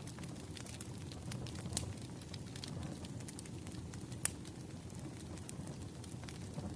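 Wood fire crackling: a steady low rumble of flames with scattered sharp pops, the loudest a little past four seconds in.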